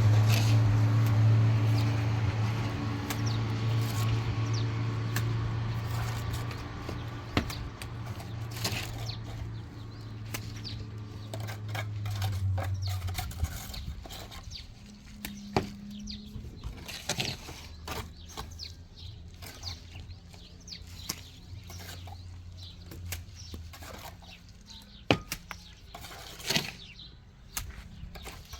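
An engine hums steadily, fades and dies away about halfway through. After it come scattered sharp clicks and short bird chirps.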